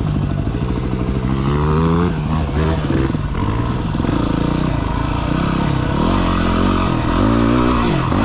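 Single-cylinder dirt bike engine being ridden, revving up steeply about a second in, then rising and falling several times as the throttle is worked on and off.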